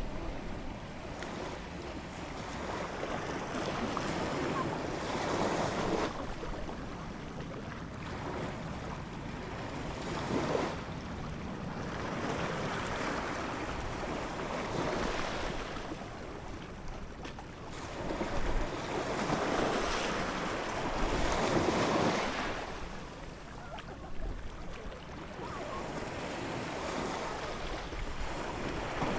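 Ocean waves breaking and washing on a shore, a steady wash of surf that swells and eases with each wave every few seconds.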